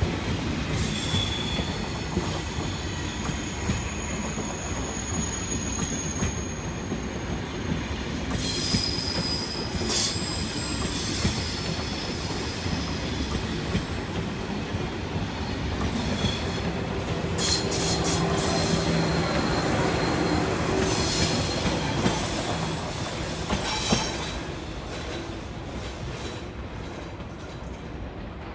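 Thalys high-speed train running past, a steady rumble of wheels on rail with repeated high-pitched squeals and scattered clicks. The sound grows louder in the middle, then drops off sharply about 24 seconds in.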